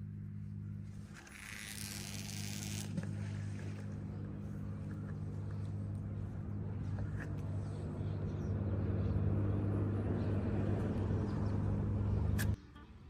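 An engine running steadily with a low hum that slowly grows louder, with a short hissing rush about a second in. The hum cuts off abruptly near the end.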